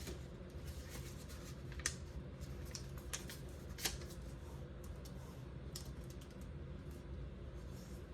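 Notebook paper being folded and creased by hand: scattered crisp crinkles and taps, the sharpest about two, three and four seconds in, over a steady low hum.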